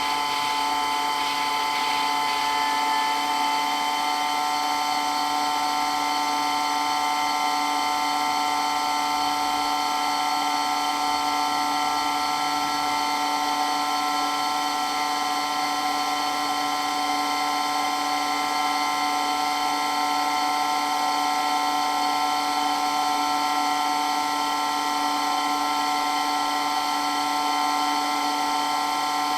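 Water pump running steadily with a loud, even, high-pitched whine that does not change.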